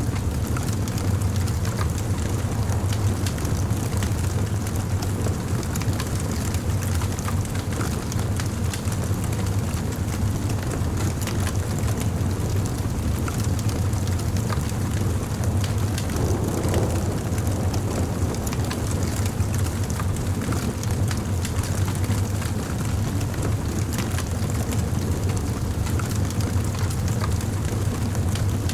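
Wood campfire burning, crackling and popping in many small sharp snaps over a steady low rumble.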